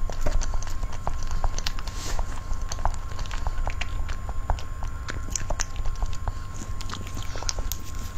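Close-miked chewing and biting of a soft cream cake: a dense run of small, irregular wet clicks and smacks from the mouth, over a steady low rumble.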